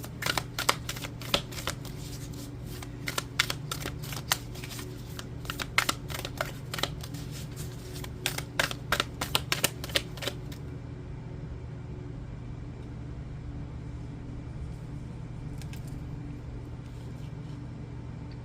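A deck of oracle cards being shuffled by hand: a quick run of crisp card snaps and flicks that stops about ten seconds in. A steady low hum runs underneath.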